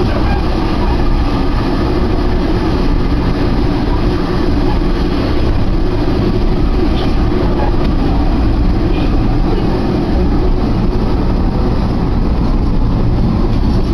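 Steady running noise of a diesel railcar heard from inside the passenger cabin: a continuous low drone at an even level, with a few faint clicks.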